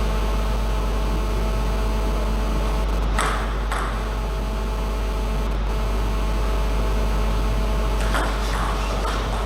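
Steady low hum with faint steady tones above it, with a short rustle about three seconds in and a few brief knocks near the end.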